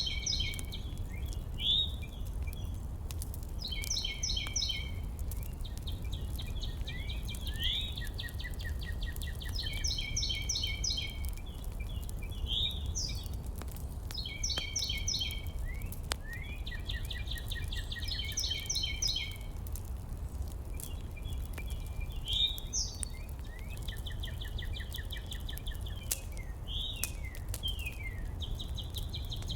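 Songbirds singing: repeated phrases of rapid, evenly spaced trilled notes about a second long, mixed with short sliding chirps. Under them runs a steady low rumble.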